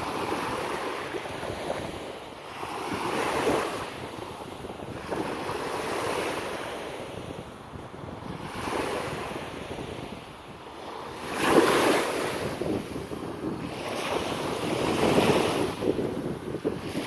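Waves washing onto a sandy beach, swelling and falling back every few seconds, with wind buffeting the microphone.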